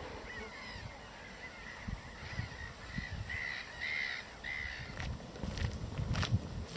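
A bird giving a run of short harsh calls, softer at first and then three louder ones about three and a half to four and a half seconds in, over low rumbling on the microphone.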